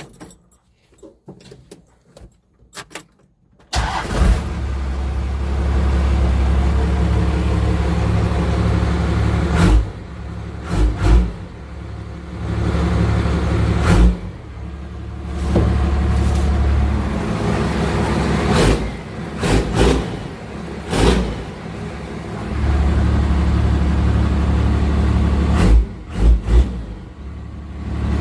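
A few small clicks and rattles, then about four seconds in a first-gen Dodge Cummins 5.9 inline-six diesel starts and runs loud through a 4-inch straight-pipe exhaust. It is revved up and let back down several times.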